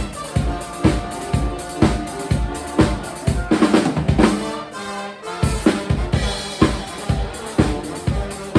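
Live rock band playing a song, drum kit to the fore with a steady kick-and-snare beat over bass and guitar. About three and a half seconds in a drum fill leads into a short break, and the full beat comes back just after five seconds.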